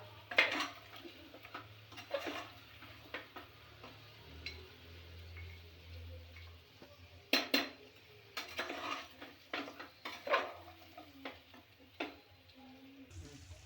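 A spoon stirring chicken and dry spice masala in a frying pan, with irregular scrapes and knocks against the pan, a few of them louder.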